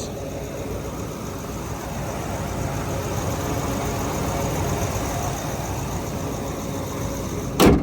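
A truck engine idling steadily, with one sharp knock just before the end.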